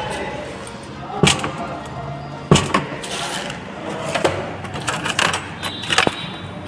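Metal parts and tools clinking and knocking as an Eicher 380 tractor's hydraulic distributor valve block is taken apart and cleaned: about half a dozen sharp, irregular clicks and knocks.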